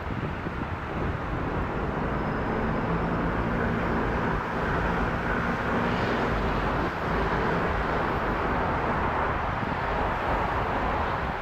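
Jet engines of a Boeing 777-200LR (GE90-110B1 turbofans) at takeoff power, a steady, even rushing noise with faint low hums underneath.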